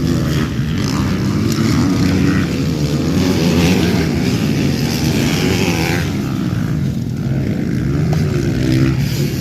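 Motocross dirt bikes racing, their engines revving, rising and falling in pitch as the riders work the throttle.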